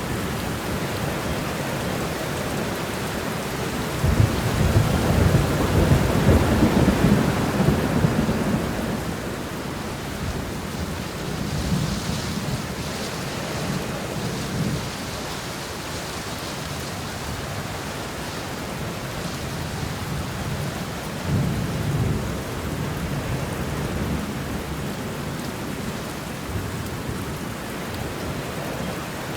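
Steady rain shower with rolling thunder: a long low rumble swells about four seconds in and fades after about five seconds, and a shorter rumble comes about two-thirds of the way through.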